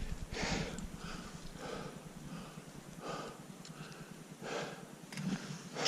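A hiker breathing hard while climbing, a loud breath about every second and a half.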